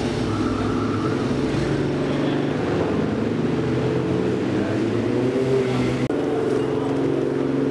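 A vehicle engine running steadily, its pitch shifting slightly, with a change in tone about six seconds in.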